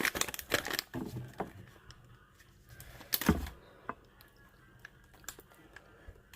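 A plastic snack packet being handled: short crinkling rustles and scattered crackling clicks, with a denser burst at the start and a louder knock about three seconds in.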